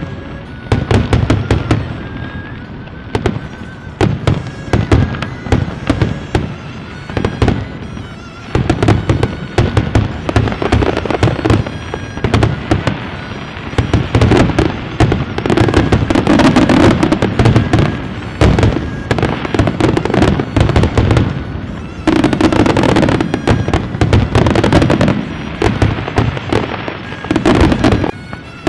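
Fireworks going off in long runs of rapid crackling bangs, with a few brief lulls between volleys.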